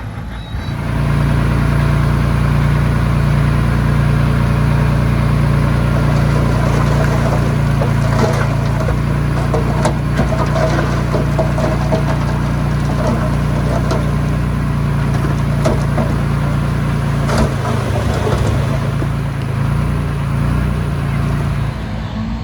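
Heavy machine's engine running steadily and loudly, starting about a second in, with a few sharp metallic knocks in the middle.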